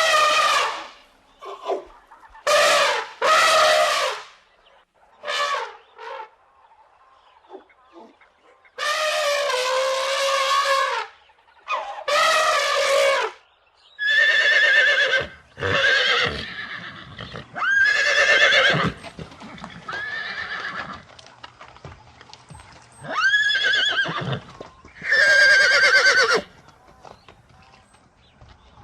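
Horses neighing: a series of loud whinnies, each lasting a second or two with a quavering pitch, separated by short pauses.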